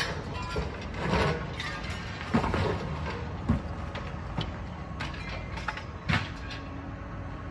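Heavy diesel demolition machinery running steadily, with a handful of sharp metal clanks and scrapes as rubble is shifted.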